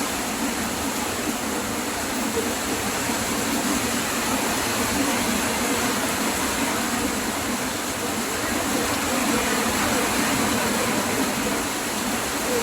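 Heavy rain from a summer storm pouring down steadily, a dense even hiss that does not let up.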